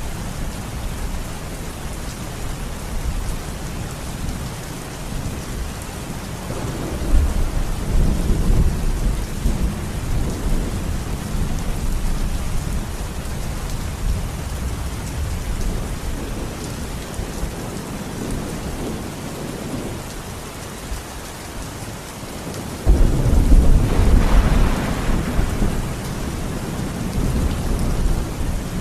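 Steady rain with rolling thunder: a low rumble swells about a quarter of the way in, and near the end a sudden, louder thunderclap breaks and rumbles on.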